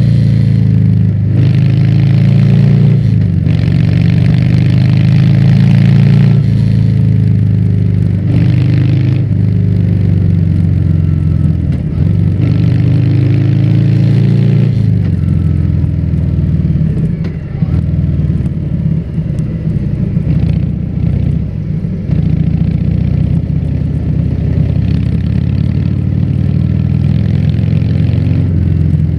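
Harley-Davidson Fat Bob 114's V-twin running through a Vance & Hines exhaust while riding. The engine rises and drops with throttle and gear changes through the first half, then settles to a lower, steadier run about halfway through.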